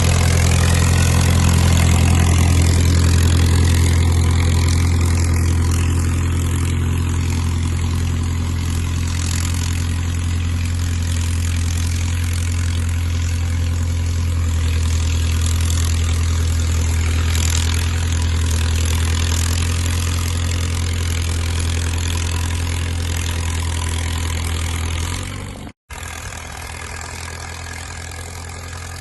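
Caterpillar crawler dozer's diesel engine running steadily with a low drone. Near the end the sound cuts out for an instant and comes back quieter.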